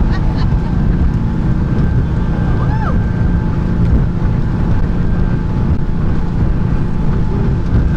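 Canal boat's engine running steadily under way, a constant low rumble.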